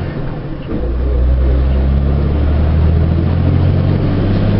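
Semi truck's diesel engine heard from inside the cab: its low note dips briefly just under a second in, then runs strong and steady as the truck pulls.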